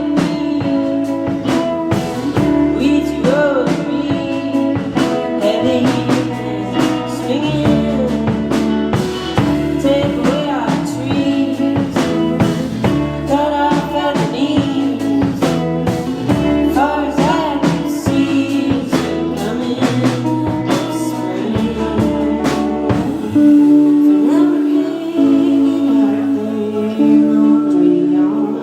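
A live band playing a song with a singer: drum kit hits, guitar and sustained bass notes under a wavering vocal line. About 23 seconds in, the lowest bass notes drop out while the higher parts carry on.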